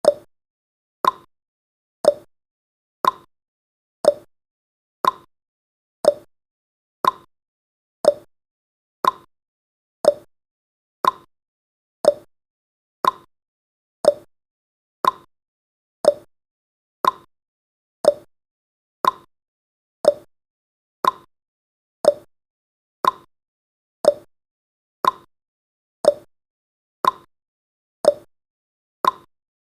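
Countdown timer's tick sound effect: a short, identical tick exactly once a second, marking off the seconds.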